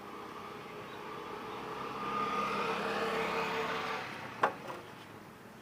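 A motor vehicle's engine passing by, growing louder over the first few seconds and then fading away. A single sharp knock comes near the end.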